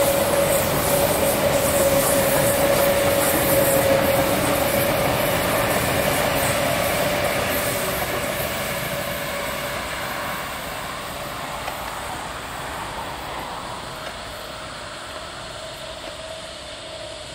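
A train running past on the line. It is loudest at first and fades steadily as it moves away, with a steady whine over roughly the first half.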